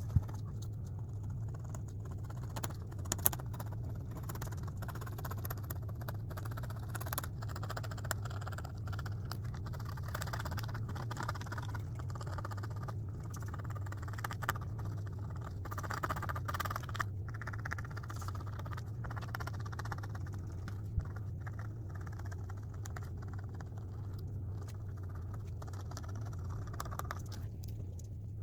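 Drawing tool scratching and scraping across a drawing surface in uneven strokes, with a few sharp clicks, over a steady low hum.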